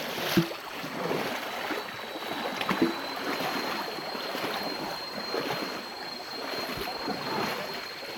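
Steady rush of flowing stream water, with a thin, steady high-pitched tone running over it.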